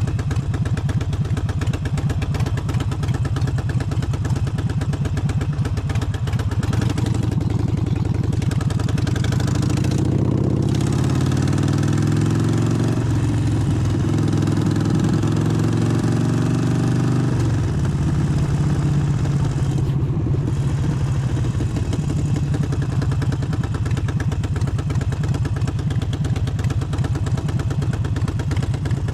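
Harley-Davidson Forty-Eight's 1200 cc air-cooled V-twin running on the move. From about seven seconds in, the engine note climbs for some ten seconds, then drops back to a lower steady note.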